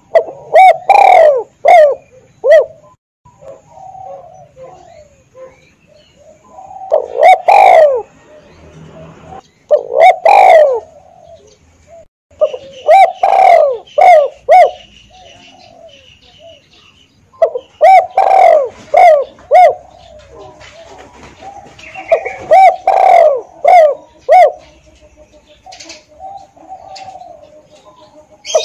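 Spotted dove cooing: loud groups of several low coo notes, repeated every three to five seconds, with short quiet gaps between them.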